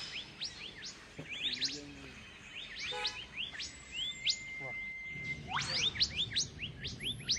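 Birds chirping: many quick rising chirps, several a second, with one long steady whistled note near the middle.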